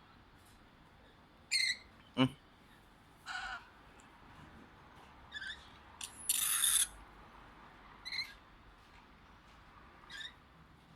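Parrot giving short squawking calls every second or two, with a louder, harsher screech about six seconds in and a sharp click about two seconds in.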